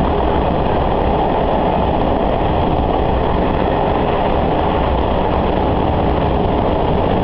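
Sanriku Railway diesel railcar running steadily, heard from inside the cabin: an even low engine and wheel-on-rail rumble.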